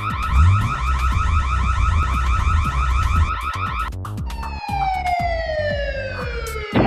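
Cartoon siren sound effect in a fast warbling yelp, about eight pulses a second, over a low rumble, cutting off about four seconds in; then one long, steadily falling tone.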